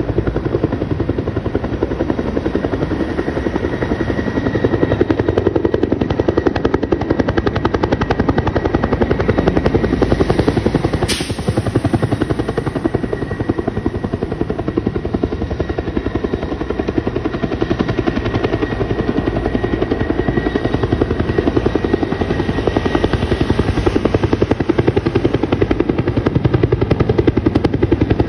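Helicopter running close by, with a steady, rapid beat of its rotor blades over the engine; one brief sharp click about eleven seconds in.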